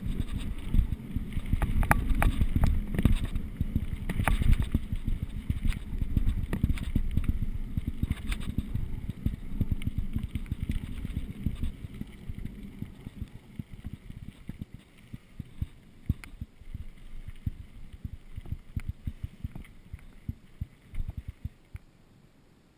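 Mountain bike riding down a rough trail: tyres rumbling over the ground with frequent rattles and knocks from the bike, and wind buffeting the microphone. The noise is strongest in the first half and dies away toward the end.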